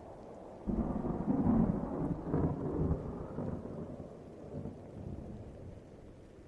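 A rolling peal of thunder that breaks about a second in, rumbles loudest for the next two seconds and then slowly dies away, over steady rain.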